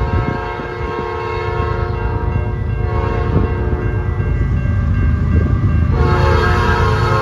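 Train locomotive horn sounding a long blast over the rumble of the passing train, breaking off about four and a half seconds in and sounding again about a second and a half later.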